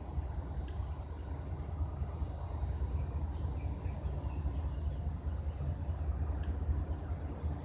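A steady low rumble with scattered short high bird chirps over it.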